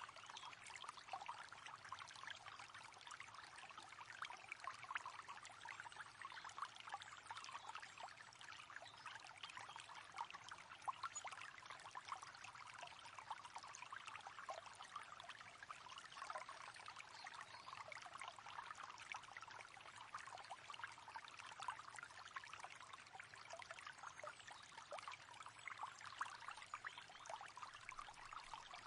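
Shallow river water flowing and babbling over stones: a steady, fairly quiet, bright splashing with many small gurgles.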